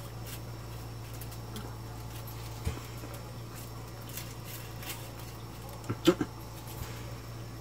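Close-miked chewing and lip-smacking of a person eating bacon-wrapped grilled corn on the cob: scattered soft clicks and smacks, with a louder short mouth sound about six seconds in, over a steady low hum.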